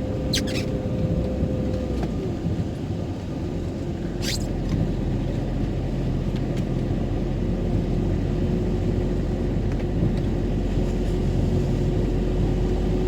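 Camper van driving, a steady engine and road rumble with a faint constant hum. Two short clicks come through, about half a second in and about four seconds in.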